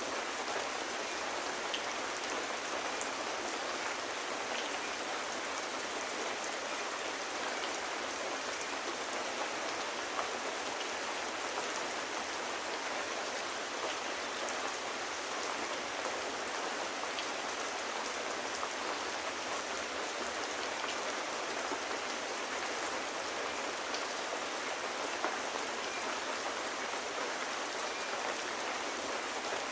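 Steady gentle rain falling on surfaces, an even hiss with scattered small droplet ticks.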